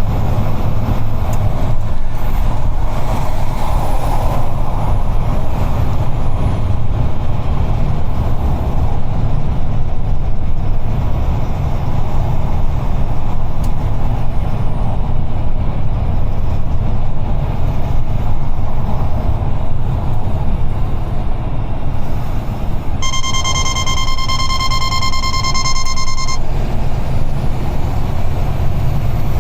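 UD Trucks Quon heavy truck driving at highway speed, heard from the driver's seat: a steady low engine and road rumble. Near the end, a steady high electronic beep sounds for about three seconds and then stops.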